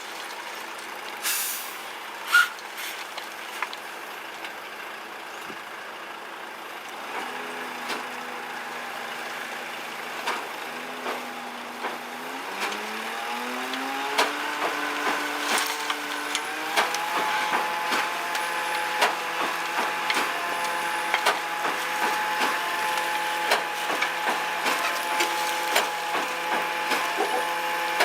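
Truck's diesel engine running, its speed raised to a higher steady pitch between about 12 and 17 seconds in, with two short air hisses near the start and frequent knocks and clatter throughout.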